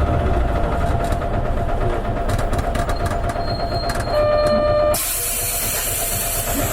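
Interior running sound of an Isuzu KL-LV280N1 city bus: the diesel engine rumbles steadily with light ticking. About four seconds in, a single electronic beep sounds for under a second. It is followed at once by a sudden loud hiss of compressed air that carries on to the end.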